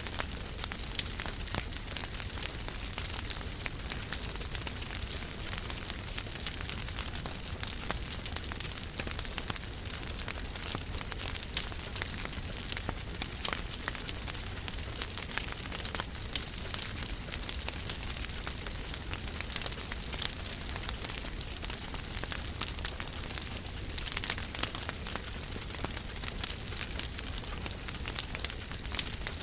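Wood fire burning in a fireplace: a steady hiss with continuous small crackles and occasional louder pops.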